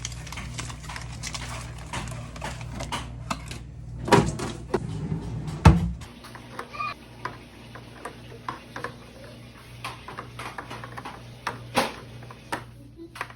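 Groceries and containers being handled and set down during a fridge restock: a run of light knocks, clicks and clatter, with a steady low hum underneath for the first half and a sharp louder knock about six seconds in.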